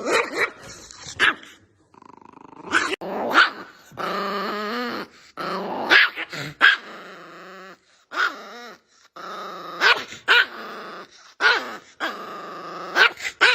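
A small Chihuahua growling in long rasping stretches, breaking into sharp, high yapping barks every second or so in an angry, defensive display.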